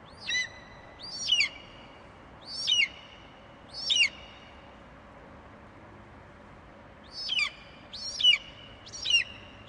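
Eagle calling: a series of short, shrill, high-pitched cries, each falling in pitch. A run of four cries is followed, after a pause of about three seconds, by a second run.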